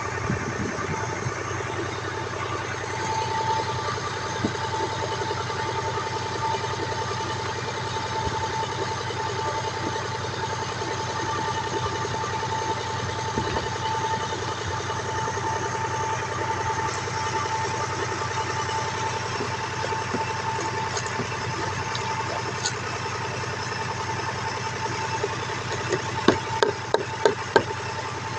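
Fiat 480 tractor engine running steadily, with a steady whine over it. A few sharp knocks come near the end.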